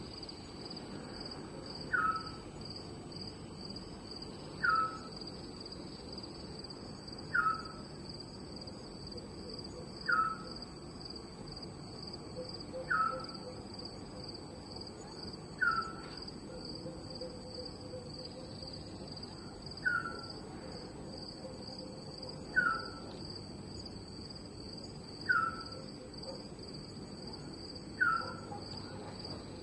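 Night ambience: a steady high-pitched chorus of crickets, with a short falling call repeated about every two and three-quarter seconds.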